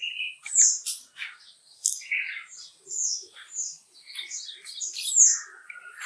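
Several birds chirping and calling in a quick, irregular run of short high notes, some of them sliding down in pitch.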